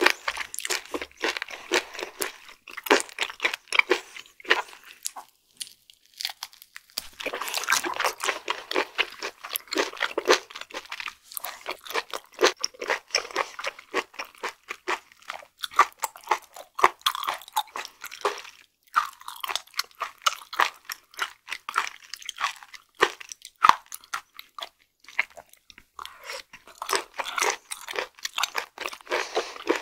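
Close-miked chewing of firm raw flatfish sashimi, a dense run of quick wet, crunchy clicks and smacks, with a short pause about six seconds in.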